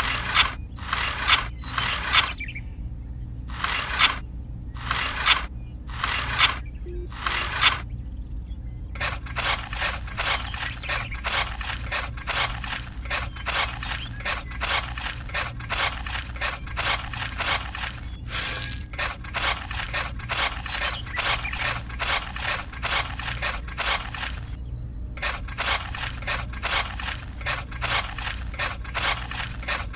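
Gritty scraping in repeated strokes, a few spaced about a second apart at first, then a quick run of about three strokes a second from about nine seconds in, breaking off briefly twice. A steady low hum runs underneath.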